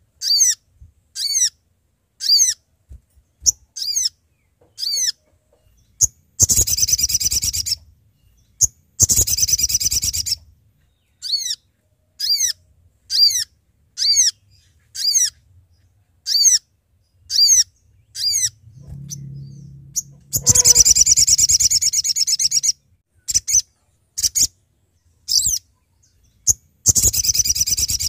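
Little spiderhunter (sogok ontong) calling: a series of short, sharp notes that fall in pitch, about one a second, broken four times by louder rapid chattering trills of a second or two. This is the male's call to a rival, the kind played to lure or provoke other spiderhunters.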